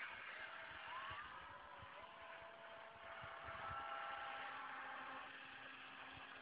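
Faint whine of a model excavator's small electric motors, its pitch shifting up and down as it works, with a few light knocks.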